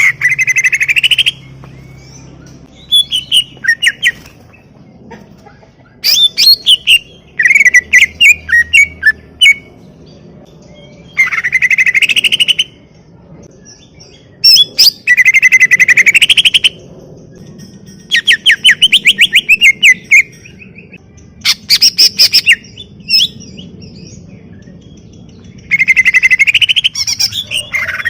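Cucak ijo (green leafbird) singing in loud, separate bursts of song, about eight phrases of rapid chattering trills and rising and falling whistled notes, with short quiet pauses between them.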